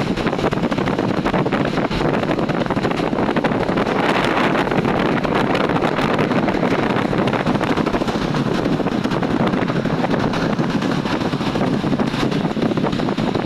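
Wind buffeting the microphone over steady road traffic noise.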